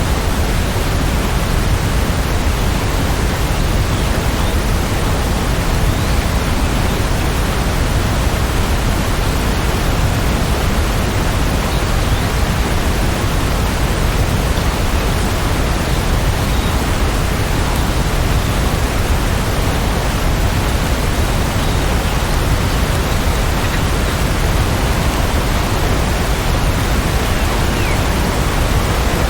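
Rain falling steadily: an even, deep hiss with no single drops, thunder or other events standing out.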